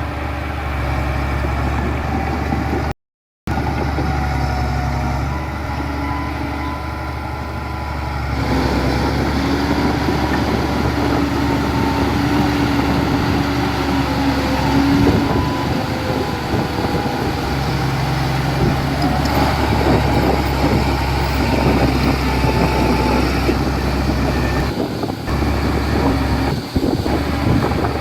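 Heavy diesel construction machinery running, a steady low engine hum with shifting engine tones. It cuts out briefly about three seconds in, then grows louder and busier with irregular rattling from about eight seconds on.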